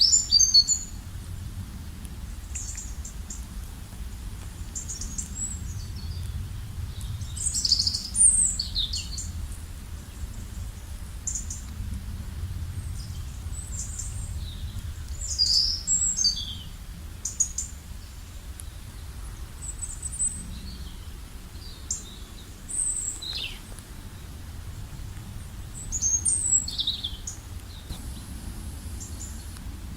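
Small birds chirping and calling in short, high-pitched bursts, several at a time, over a steady low rumble of background noise.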